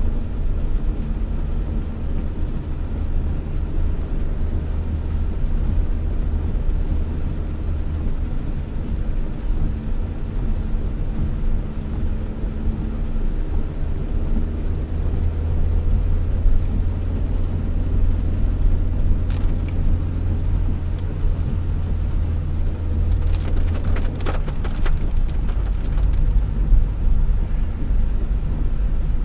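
Honda Elevate heard from inside the cabin while driving on a wet road: a steady low drone of engine and tyres, with the engine's pitch shifting partway through. A single click, then a short cluster of clicks, come in the second half.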